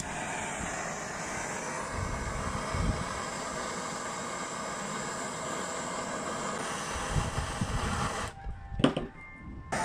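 Hand-held torch flame running with a steady roar while it preheats a bolt on a Bendix purge valve. It cuts off about eight seconds in, followed by a short knock.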